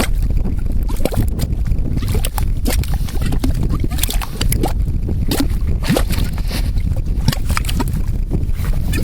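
Mud pot bubbling: carbon dioxide gas bursting through thick mud in irregular pops and gurgles, over a steady low rumble.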